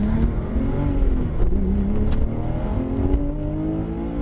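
Porsche 911 GT3 RS flat-six engine heard from inside the cabin, accelerating hard from low speed. Its pitch climbs with the revs and drops back at each upshift.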